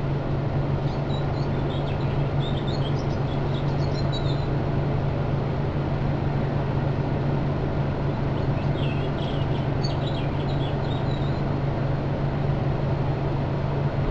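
Four-wheel-drive vehicle's engine idling steadily, heard from inside the cab. Birds chirp faintly above it in two spells, around one to four seconds in and again around nine to eleven seconds in.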